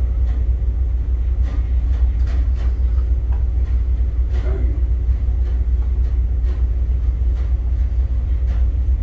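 Steady deep rumble of a towboat's diesel engines, with a few faint knocks and clicks scattered through it.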